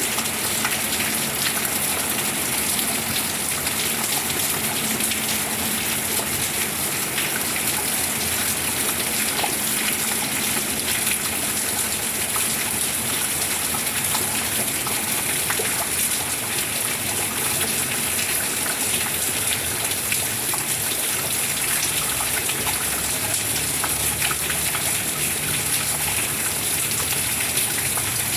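Steady rain falling, an even rushing hiss dotted with the small ticks of individual drops.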